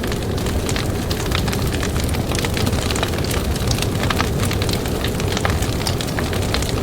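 Campfire crackling, with frequent sharp pops and snaps over a steady low rumble of wind.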